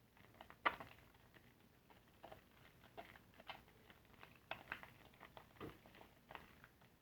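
Soapy car-wash sponge being squeezed and worked by hand, giving short, irregular wet clicks and crackles of lather, the loudest about two-thirds of a second in.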